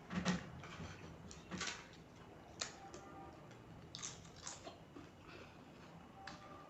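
A person chewing a mouthful of rice and curry close to the microphone, with scattered short, sharp mouth clicks and smacks.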